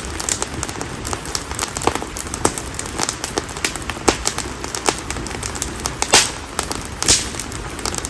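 Konara oak firewood burning in an open wood fire, crackling and popping irregularly over a steady hiss of flame, with a few louder pops, the strongest about six and seven seconds in.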